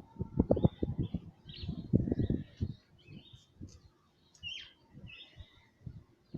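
A small bird chirping with short, high calls scattered throughout. Clusters of low knocks and thumps, the loudest sounds, come about half a second in and again about two seconds in.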